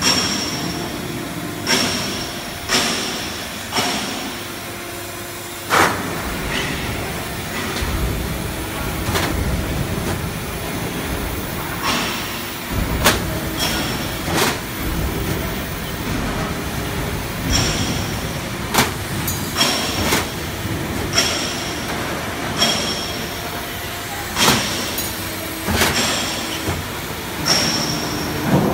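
HVAC duct manufacturing auto line running: a steady machine noise with repeated sharp metallic clanks and knocks, irregularly every second or two, some of them ringing.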